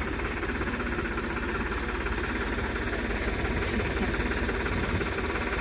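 Tractor diesel engine idling steadily with an even clatter.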